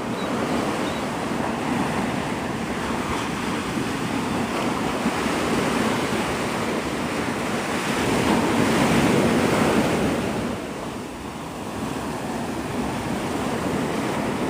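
Gulf of Mexico surf breaking and washing on the beach, swelling louder about eight seconds in and easing off a couple of seconds later, with wind on the microphone.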